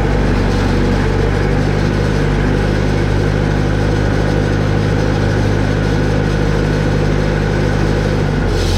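Vehicle engine running steadily, its note shifting slightly near the end.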